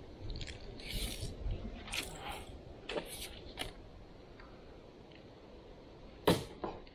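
A run of irregular clicks and knocks over a low rumble, ending in one sharp, loud knock near the end, typical of gear being handled on a kayak.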